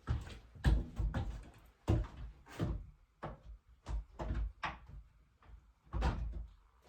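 A series of irregular knocks and thumps, about a dozen, with a short pause about five seconds in.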